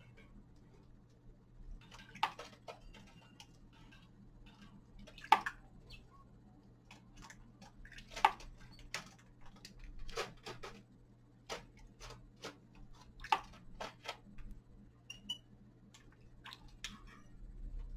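Small caged finches pecking at seed and moving about the cage: irregular sharp clicks and taps, with a couple of brief high chirps about three-quarters of the way through, over a steady low hum.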